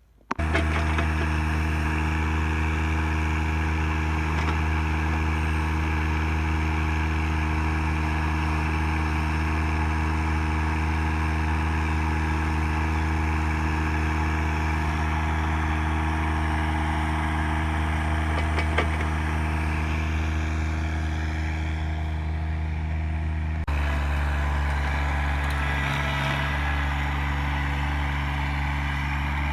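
An engine running at a steady, unchanging speed, with an abrupt change in its tone about three-quarters of the way through.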